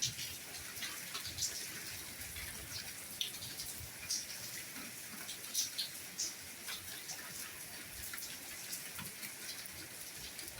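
Soft steady rainfall, a constant hiss with individual drops ticking irregularly on a surface.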